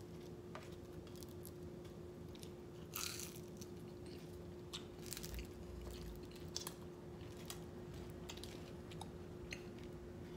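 Close-miked chewing of food, with scattered short, crisp crunching clicks, the loudest about three seconds in. A faint steady hum sits underneath.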